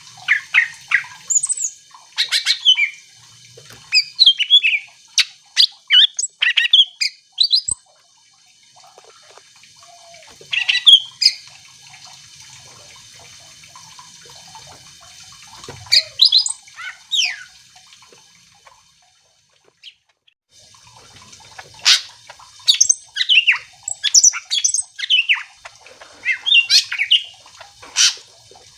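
Cucak ijo (green leafbird) singing in quick bouts of sharp, sliding whistles and chirps, with pauses of a few seconds between bouts.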